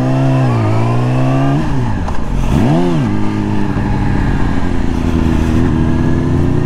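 2020 Yamaha R6's inline-four engine running under way, its pitch dipping and rising several times as the throttle is eased and opened, with one quick rise and fall about three seconds in, then holding steadier near the end.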